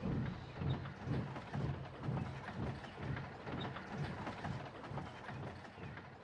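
Steam locomotive chuffing away at about two puffs a second, slowly fading.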